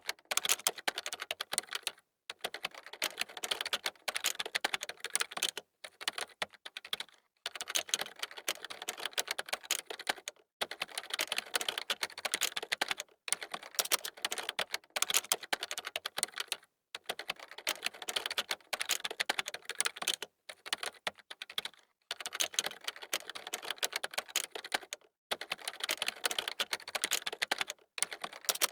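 Fast typing on a computer keyboard: quick, dense key clicks in runs of a few seconds, broken by short pauses.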